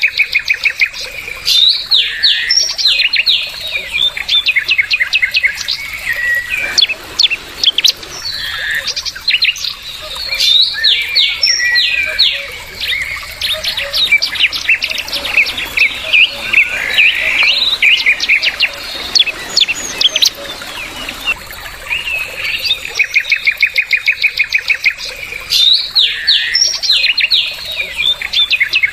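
Songbird singing a long, loud, varied song: fast runs of repeated short notes mixed with sweeping whistled notes, with the same opening phrase coming back near the end.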